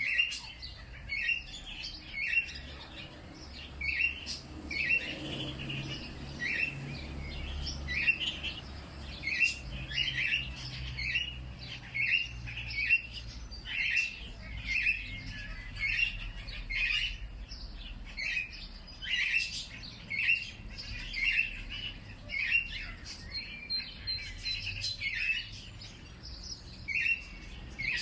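Birds chirping: short, sharp chirps repeated roughly once or twice a second, over a faint low rumble.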